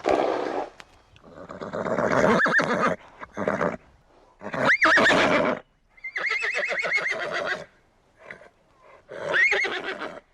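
A horse neighing and whinnying, a series of loud calls with short gaps between them, one long quavering whinny about six seconds in.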